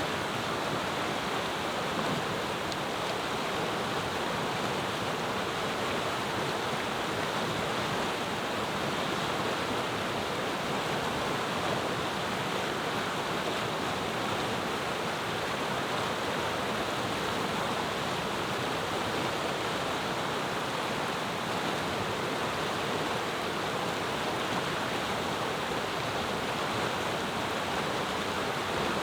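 Clear mountain river flowing: a steady, unbroken rush of water over stones.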